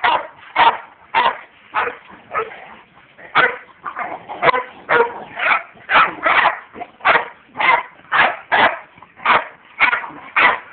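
Dog barking over and over, short sharp barks coming between one and two a second.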